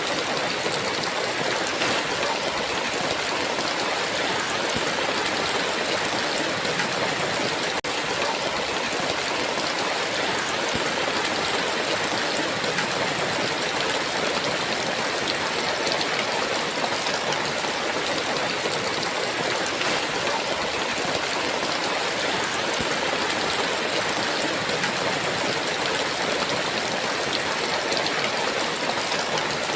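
Heavy rain pouring in a steady, unbroken downpour.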